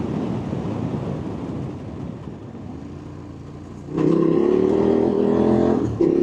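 Motorcycle engine running, dropping off to a low level, then about two-thirds of the way in suddenly loud and held at steady high revs, with a brief dip near the end before it picks up again.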